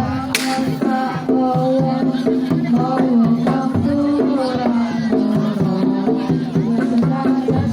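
Live Javanese Bantengan accompaniment music: hand drums beating under a bending melodic line over a sustained low tone, with a cymbal-like crash just after the start.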